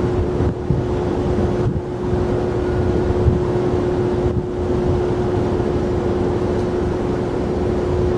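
Jet airliner engines running steadily at the airport: a low rumble with a constant hum-like tone, with some wind on the microphone.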